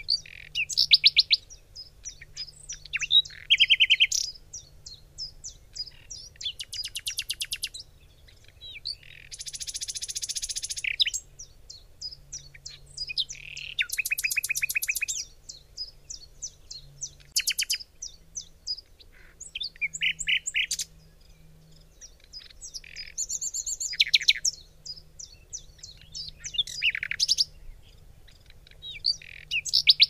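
Several songbirds chirping and singing, with fast rattling trills and a harsh buzzy call lasting about two seconds, around ten seconds in.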